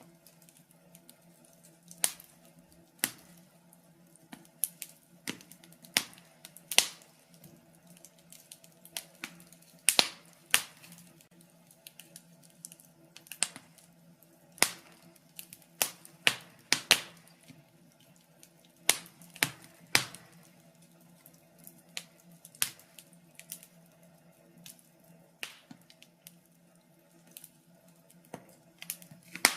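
Wood fire in a fireplace crackling: irregular sharp pops and snaps, roughly one a second and bunched together at times, over a faint steady low background.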